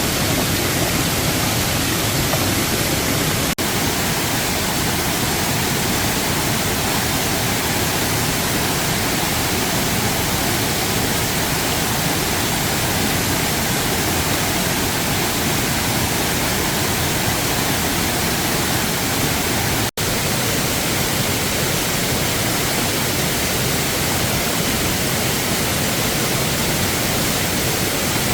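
Waterfall rushing in a loud, steady roar of falling water. The sound drops out for an instant twice, about three and a half seconds in and again about twenty seconds in.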